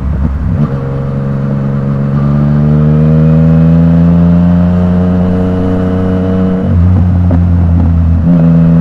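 Yamaha MT-09's three-cylinder engine through an Akrapovič exhaust, pulling in one gear with the pitch rising slowly for about six seconds, then dropping sharply near the end as the next gear goes in and the revs settle.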